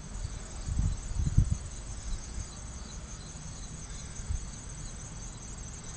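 Insects trilling steadily in a thin, high, finely pulsing tone, with a few low rumbles about a second in.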